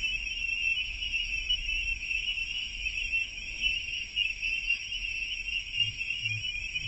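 Crickets chirping in a steady, continuous high trill.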